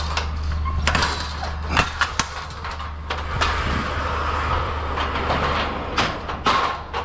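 Forklift engine running steadily while a pallet is pushed into the trailer, with repeated knocks and clatters.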